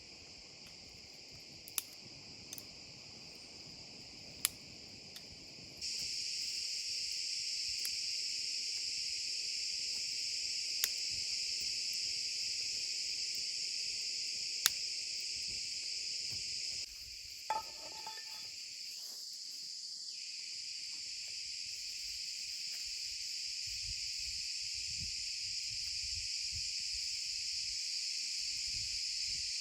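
Steady, unbroken chorus of crickets or similar insects, a high continuous chirring. It gets louder about six seconds in and falls back about halfway, with a few sharp single clicks scattered through it and a short rustle near the middle.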